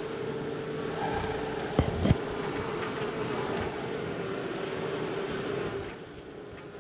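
Honey bees from a disturbed wall colony buzzing in a steady hum that falls away near the end, with two quick knocks about two seconds in.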